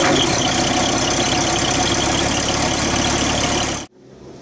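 Loud steady engine-like mechanical noise that cuts off abruptly near the end.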